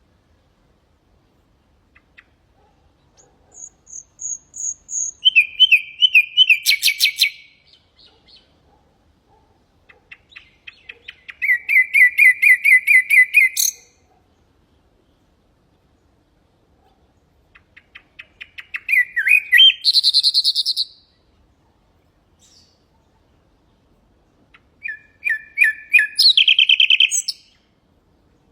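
Common nightingale singing: four separate song phrases a few seconds apart, each a quick series of repeated notes and whistles, one holding a long run of rapid repeated notes.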